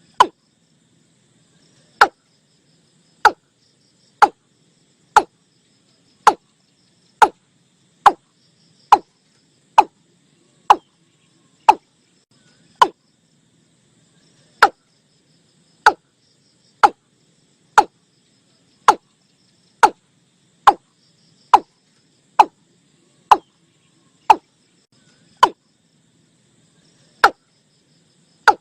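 Watercock call, a recorded lure call: a long series of short, sharp single notes about one a second, broken by a few pauses of a second or two. Faint insect chirring runs behind.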